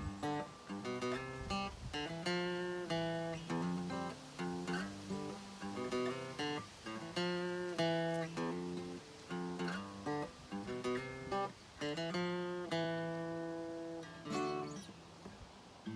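Seagull CW Mini Jumbo acoustic guitar (solid cedar top, cherry back and sides) being strummed, chords ringing and changing about every second.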